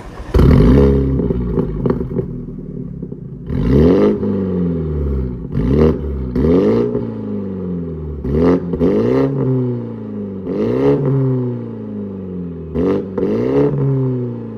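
BMW 330i's B48 turbocharged four-cylinder revved through an MS-R valved cat-back exhaust: a series of about nine sharp throttle blips, some in quick pairs, each rising and dropping back to idle.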